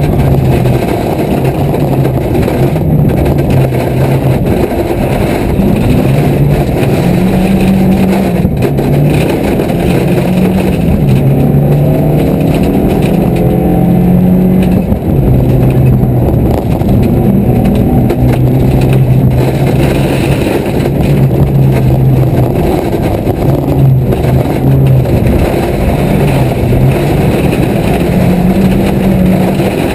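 Car engine heard from inside the cabin while driving a gravel road, its pitch stepping up and down several times as the car speeds up and slows, with road noise from the tyres underneath.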